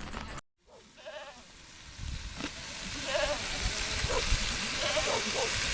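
Goats bleating several times in short calls, over a steady hiss of rain that grows louder after a brief dropout near the start.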